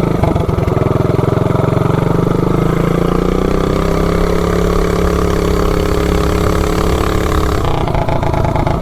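Predator 420cc single-cylinder minibike engine, governor removed, with a 30mm carb and header pipe, pulling a full-throttle launch through a 30 series torque converter. The pitch climbs over the first few seconds, holds high and steady, then drops as the throttle is let off near the end.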